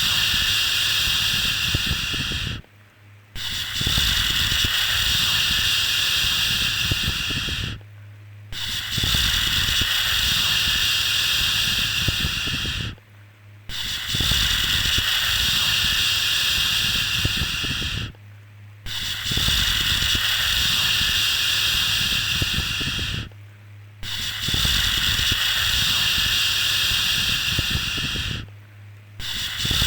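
A long 'shhh' shushing sound for lulling a baby, repeated in a loop: each shush lasts about four and a half seconds, then a half-second break, six times over. A faint low hum carries on underneath, through the breaks.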